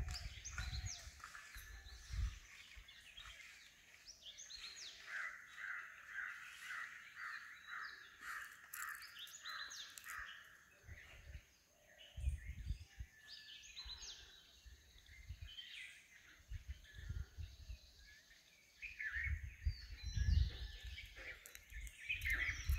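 Several birds calling and chirping, with one bird repeating a note about twice a second for around five seconds in the middle. Bursts of low rumble come and go, loudest about halfway through and again near the end.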